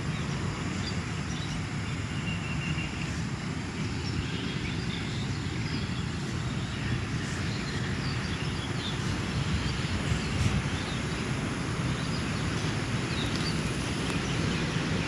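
Steady outdoor rumble, with faint high bird chirps scattered through it.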